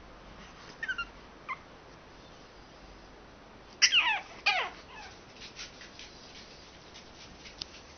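Pug whining in short, high-pitched calls that fall in pitch: two faint ones in the first two seconds, then a louder burst of several about four seconds in. It is the pug's wake-up whining.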